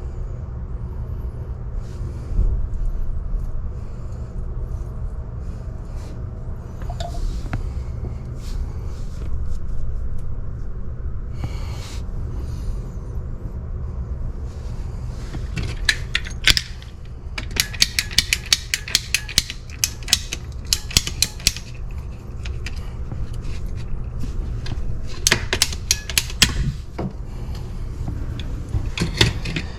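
Small metal parts and hand tools clinking and clicking, in two quick runs of rapid clicks, over a steady low rumble.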